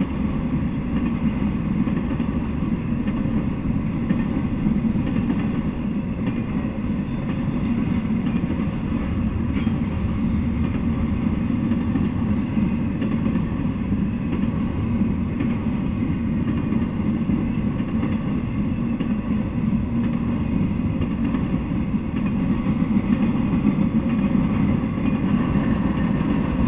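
Intermodal freight train rolling past, its container and trailer cars giving a steady, unbroken low rumble of wheels on rail.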